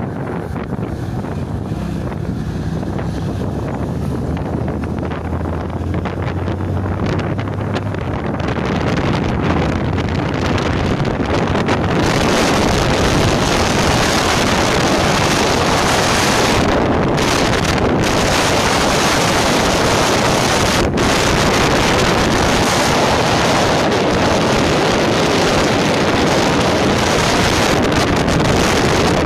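Wind buffeting the microphone over a steady rushing rumble, which grows louder about twelve seconds in.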